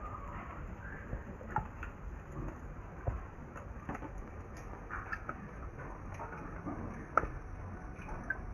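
Rain falling in a garden: a steady hiss with irregular drops ticking on surfaces, one sharper tick about seven seconds in.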